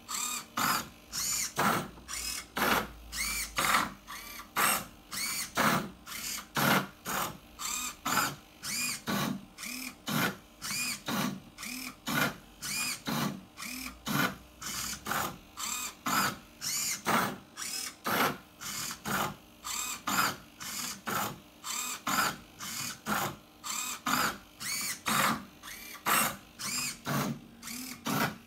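Stepper motors of a 3D-printed Rubik's cube solving robot turning the cube's faces in quick succession, about two to three moves a second. Each move is a short motor whine that rises and falls in pitch.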